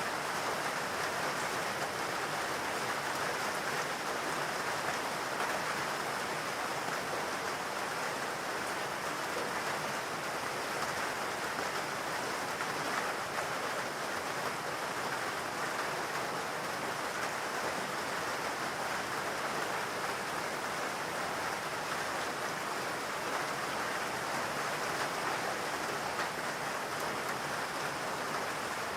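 Steady rain falling, an even patter without pauses or single loud drops.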